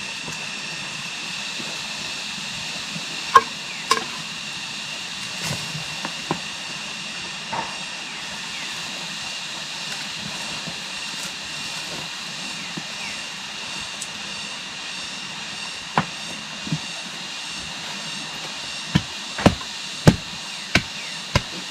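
Sharp knocks, like strikes or chops of a hand tool on wood or stone, come singly and in pairs and then in a quick run of about six near the end. A steady high hiss runs underneath throughout.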